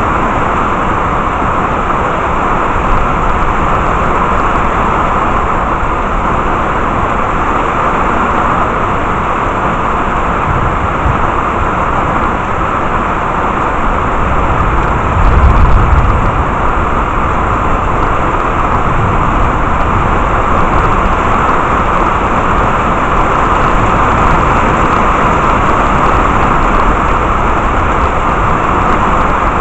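Heavy rain falling steadily, with a short low rumble of thunder swelling about halfway through.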